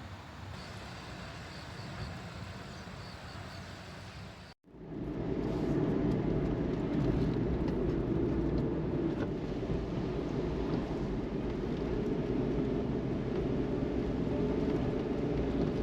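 Steady road and engine noise from a vehicle driving in rain. About four and a half seconds in, it cuts briefly to silence and comes back louder, heaviest in the low-mid range.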